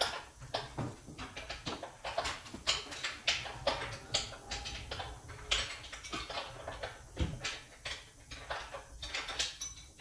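A run of irregular clicks and knocks, several a second, over a low rumble.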